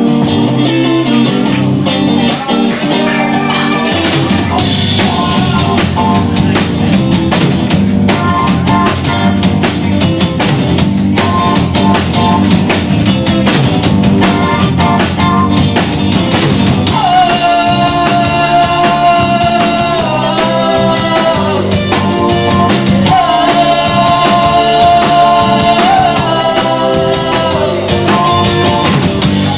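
Rock band playing live: drum kit, electric guitar, bass and keyboards at full volume with a steady drum beat. About halfway through, a long held melody line that slides slightly in pitch comes in on top.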